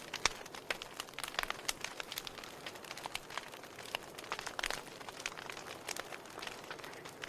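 Wood fire crackling, with irregular sharp pops and snaps over a soft steady hiss of burning logs.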